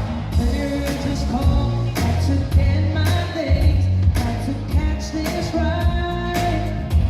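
Band music with a singer, over a heavy bass line and a steady drum beat.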